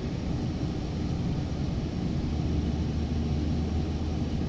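Detroit Series 60 diesel engine of a Western Star 4900 semi truck running steadily while driving, a constant low drone.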